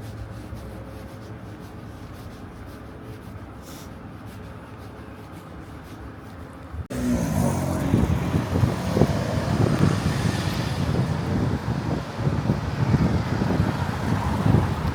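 A low steady hum, then about seven seconds in an abrupt jump to loud street noise: road traffic passing, with an uneven low rumble.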